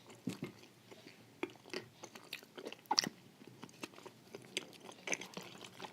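Close-up chewing with irregular crisp crunches and wet mouth clicks, a person eating crunchy wafers with cream.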